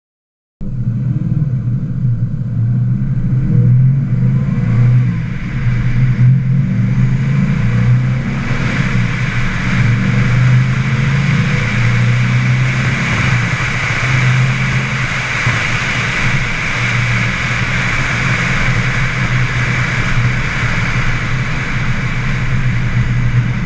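Chevelle's engine running steadily, starting abruptly just after the beginning, with a hiss that grows louder about eight seconds in.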